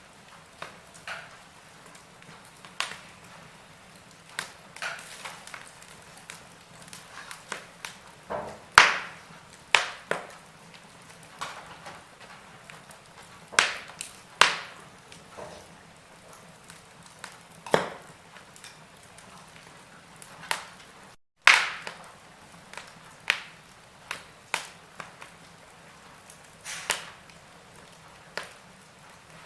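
Wood fire burning in a fireplace: irregular sharp crackles and pops of the burning logs over a faint steady hiss. The sound cuts out for an instant about two-thirds of the way through, just before one of the loudest pops.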